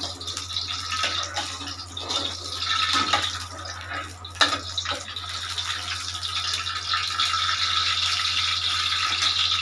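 Cooking oil heating in a kadhai on the stove, giving a steady sizzling hiss with a few sharp crackles about two, three and four and a half seconds in.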